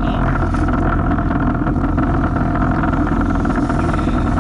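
Jet ski engine running steadily under way, holding an even pitch.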